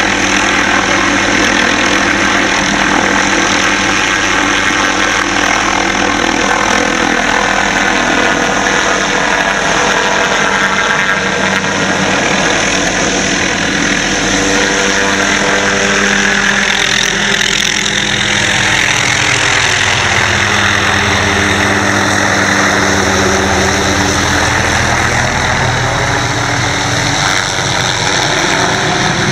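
Helicopter hovering, its rotor and turbine engine making a loud, steady drone. About halfway through, the tone sweeps and shifts as the helicopter changes position, then settles.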